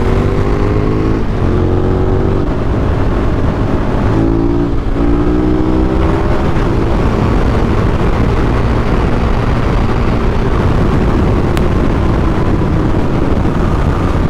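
Adventure motorcycle engine accelerating, its revs climbing and dropping back at about three gear changes in the first six seconds. It then settles into a steady engine drone under wind and road noise at speed.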